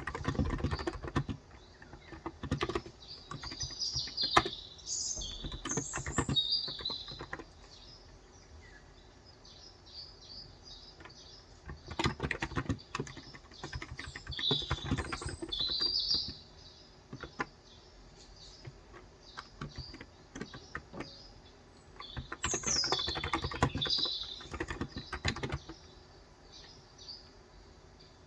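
Typing on a COX Endeavor electrostatic capacitive tenkeyless keyboard with 35 g switches, in several bursts of rapid keystrokes separated by pauses. Birds chirp in short high phrases in the background, three times.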